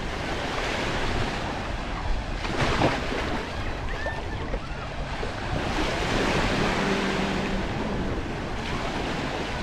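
Surf washing onto the beach in a steady rush that swells and eases, with wind on the microphone.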